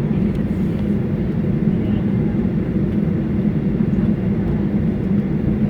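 Steady low rumble of a Boeing 737-800's cabin, the engines and airframe heard from inside with no change in pitch.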